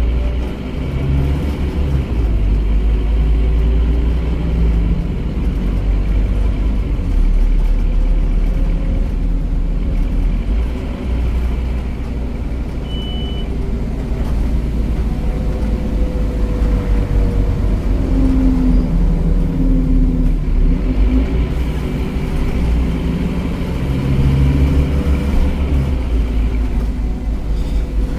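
Scania Omnicity bus with its five-cylinder Scania DC9 9.3-litre diesel and ZF automatic gearbox, running on the road. The engine's pitch rises and falls as the bus pulls away, changes gear and slows. A short high beep sounds about halfway through.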